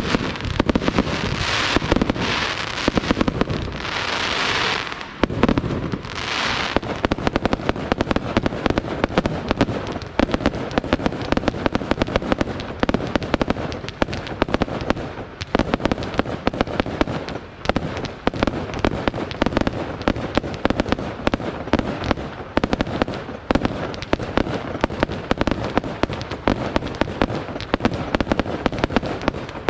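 Aerial fireworks display: a few pulses of hissing in the first five seconds, then a dense, continuous barrage of rapid bangs and crackles.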